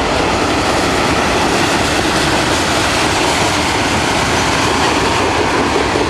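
Freight train cars rolling past close by, the steady loud noise of steel wheels running on the rails.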